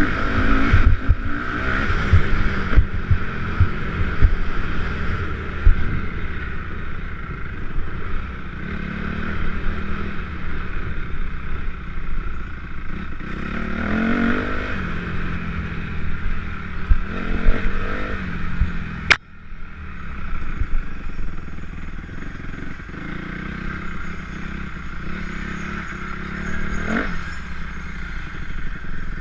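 Motocross motorcycle engines revving and passing, their pitch rising and falling. There is a sharp click and a brief drop in level about two-thirds of the way through.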